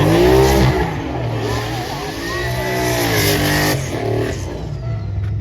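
Truck engine revving twice, its pitch climbing and falling back right at the start and again about two and a half seconds in, over a steady low idle.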